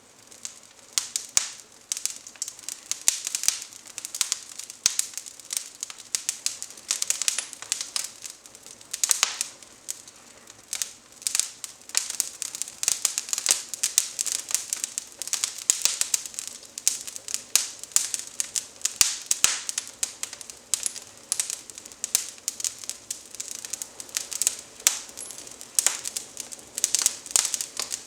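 Twigs burning in a wood fireplace, crackling and popping with dense, irregular sharp snaps.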